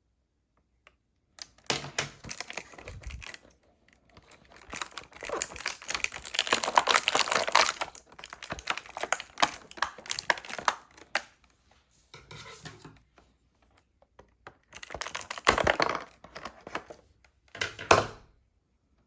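Small plastic toy pieces and packaging being handled: dense runs of rapid clicks and rattles in several bouts, with short pauses between them.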